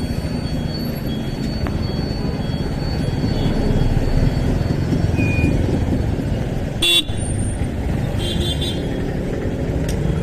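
Motorcycle riding through town traffic: a steady engine and road rumble, with short vehicle horn toots about two-thirds of the way in.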